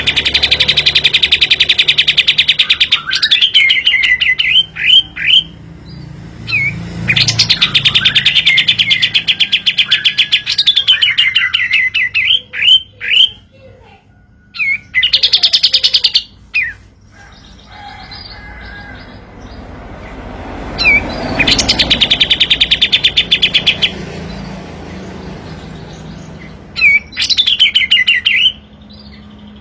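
A 'kapas tembak' songbird singing loud song phrases. Each phrase is a fast rattling trill lasting a few seconds, ending in short sliding whistled notes, and the phrases repeat several times with short pauses between them.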